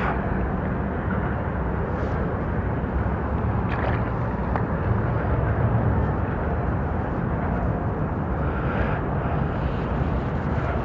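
Steady outdoor rumble with no clear pitch, with a few faint knocks about two and four seconds in.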